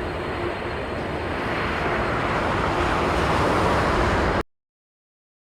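Jet airliner on landing approach in strong wind, a steady rushing engine noise with a low rumble that swells over the last couple of seconds, then cuts off abruptly about four and a half seconds in.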